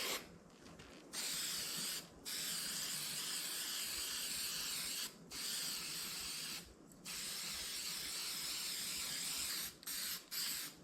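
Aerosol spray paint can hissing in a run of passes, each about one to three seconds long, with short breaks between them.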